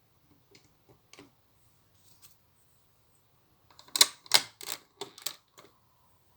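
Plastic Lego pieces clicking as they are handled: a few faint clicks, then a quick run of about six sharp clicks about four seconds in.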